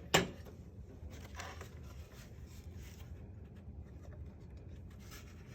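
Handling of toy trucks and their packaging: one sharp knock just after the start, then faint rubbing, light taps and a brief rustle.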